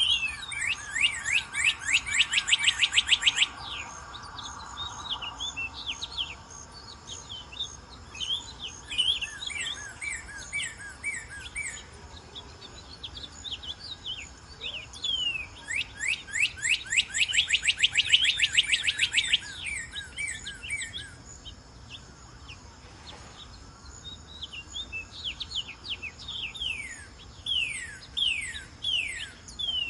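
Northern cardinal singing: series of clear down-slurred whistled notes, twice speeding up into a fast rapid trill, the first at the start and the second about halfway through.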